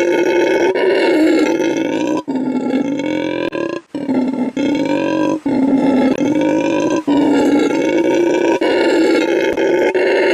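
Howler monkey roaring: a run of loud, drawn-out roars broken by short gaps every second or two.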